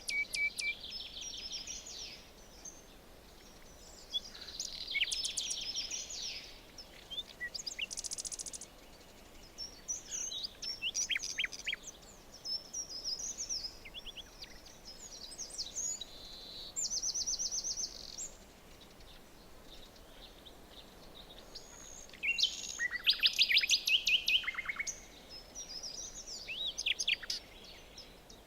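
Several songbirds singing and calling in a forest, with trills and quick runs of repeated high chirps coming in short phrases throughout, over a faint steady background hiss.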